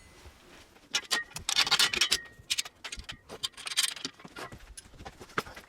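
Kayak rack parts and bolts being handled and fitted during assembly: a run of sharp clicks and ticks with short spells of scraping and rubbing.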